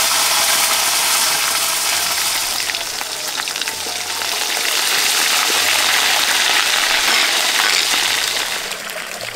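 Food sizzling loudly as it fries in hot oil in a wok, easing a little three to four seconds in and dying down near the end.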